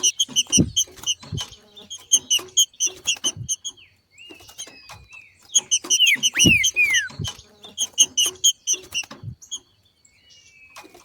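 Green-winged saltator (trinca-ferro) giving its 'macheado' chatter: bursts of rapid, clipped repeated notes broken by short pauses, with a few short down-slurred whistles in the middle. Dull low knocks come among the notes.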